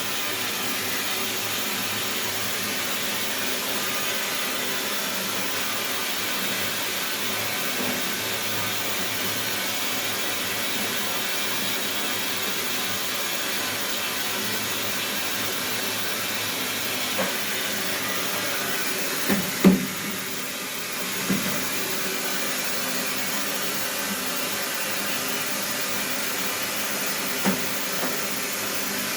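Water running through household plumbing with a steady hiss. A few short knocks and clunks come in the later part, the loudest about two-thirds of the way in.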